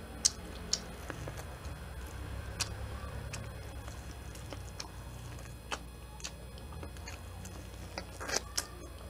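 Close-miked eating sounds as a piece of corn on the cob is bitten and chewed: scattered sharp wet clicks and smacks, a few louder ones near the end.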